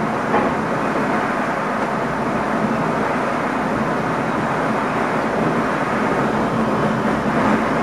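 Steady running noise inside the driver's cab of an NS ICM (Koploper) electric multiple unit travelling along the track: an even rumble and rush of wheels on rails and the moving train.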